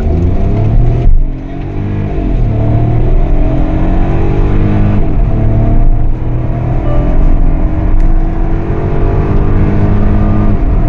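Hyundai Venue N-Line's 1.0-litre three-cylinder turbo petrol engine accelerating hard from a standstill, full throttle through the gears. Its pitch climbs in each gear and drops at each quick upshift of the dual-clutch automatic.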